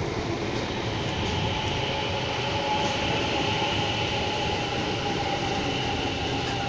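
CSR electric commuter train pulling into a station: steady running noise of the cars on the rails, with a few high steady tones joining in about a second in.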